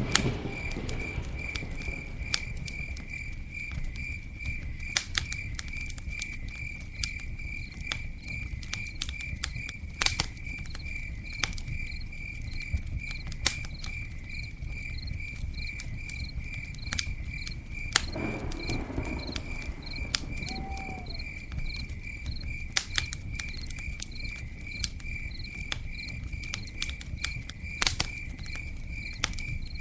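Campfire crackling, with sharp pops every second or two over a low steady rumble, while a cricket chirps steadily a few times a second.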